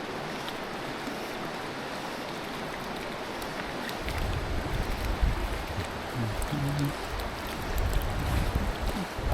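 A mountain stream rushing steadily. From about four seconds in, a gusty low rumble joins it.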